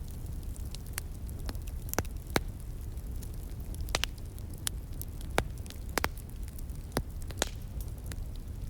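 Wood fire crackling, with irregular sharp pops and snaps, several louder ones standing out, over a low steady rumble.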